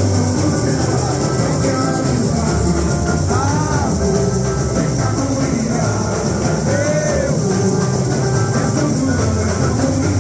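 Live samba-enredo music: voices singing over a steady, dense percussion and instrumental backing.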